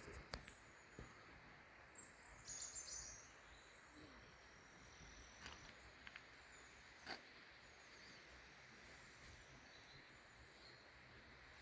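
Near silence: faint outdoor ambience with a few soft clicks and a brief high chirping about two and a half seconds in.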